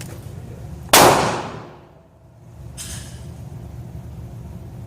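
A single shot from a Ruger New Vaquero .44 Magnum single-action revolver about a second in: a sharp crack that dies away over about a second.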